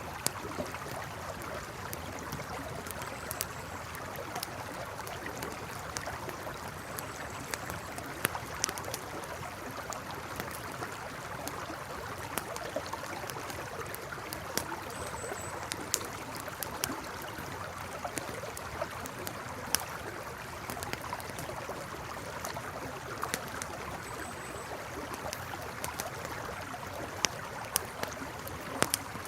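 A river flowing steadily, with a campfire crackling and popping in sharp, irregular snaps over it.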